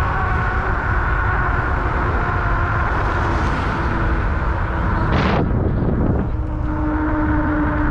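Riding noise of an Ecotric 500 W electric fat-tire bike: wind rumbling on the helmet-style action camera's microphone and the tyres rolling, with a steady whine from the hub motor. About five seconds in there is a brief whoosh.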